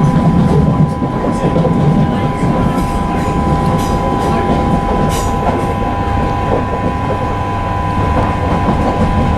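Class 323 electric multiple unit running at speed, heard from inside the carriage: a steady rumble of wheels on rail with a few sharp clicks, over a steady two-note whine.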